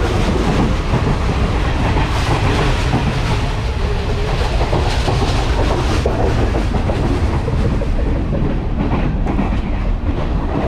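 Passenger train running, heard from inside the carriage by the door: a steady, loud noise of the wheels on the track and the moving carriage.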